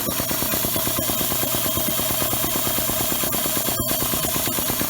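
Early-1950s Campbell Hausfeld Tankmobile piston air compressor, driven by a 3/4 horsepower electric motor, running steadily with a rapid even pulsing as it pumps up its small tank, a converted WWII bomber oxygen tank. It runs nice and quiet.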